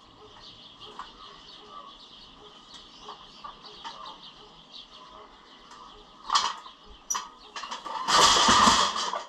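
Two sharp knocks, then about a second of loud rattling scrape near the end as the dolly under the milling machine shifts. Faint bird chirps are in the background.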